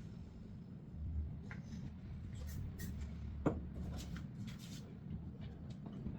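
Indoor handling noises: rustling and small clicks, with one sharper knock about three and a half seconds in, over a low rumble.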